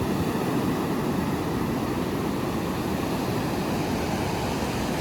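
Ocean surf washing steadily, heaviest in the low end, with no single wave break standing out.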